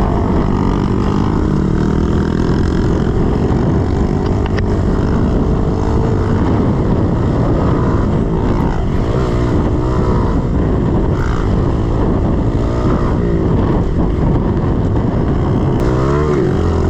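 110cc four-stroke pit bike engine being ridden, its pitch rising and falling repeatedly as the throttle is worked through the track's sections.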